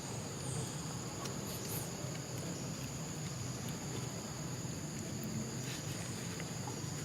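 Insects droning steadily at a high pitch, with an even outdoor background hiss.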